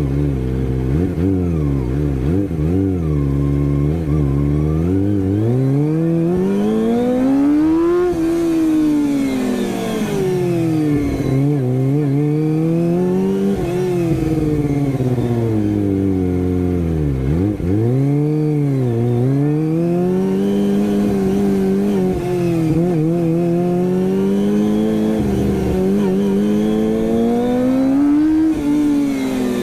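Kawasaki ZX-25R's 250 cc inline-four through an Akrapovic exhaust, revving up and easing off over and over, its pitch climbing and falling every few seconds.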